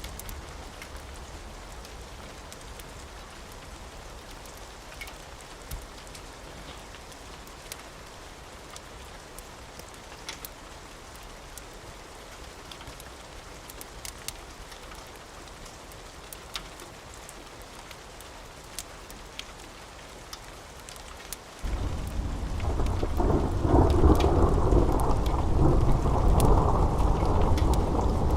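Steady rain with scattered sharp crackles from a wood fire. About 22 seconds in, a loud rumble of thunder starts suddenly and rolls on.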